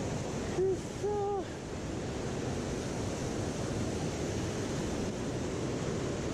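Steady rush of a mountain stream's flowing water. About a second in come two short hoot-like tones, the second a little longer.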